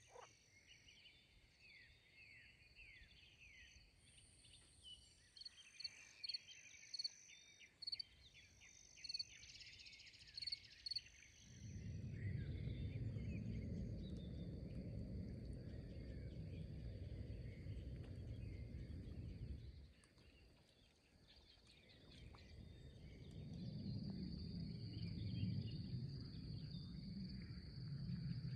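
Insects chirping with bird calls, including short repeated sweeping chirps in the first ten seconds and a steady high trill near the end. A loud low rumbling noise comes in about a third of the way through, drops out briefly around two-thirds, and returns.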